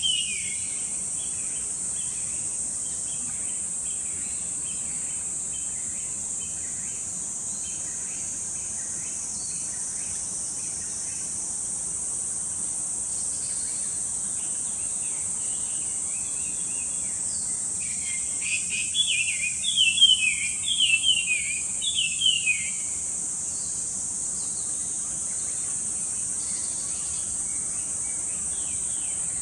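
A steady high-pitched insect drone throughout, with a quick run of several short, falling bird calls about two-thirds of the way through and fainter scattered calls elsewhere.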